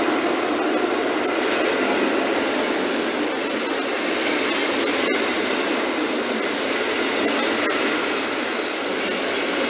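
Locomotive-hauled passenger coaches rolling past along the platform: a steady noise of wheels running on the rails.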